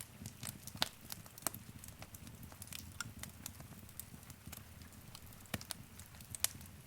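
Wood fire crackling in a fireplace: irregular sharp pops and snaps over a steady low rumble of the flames, with louder pops about a second in and again near the end.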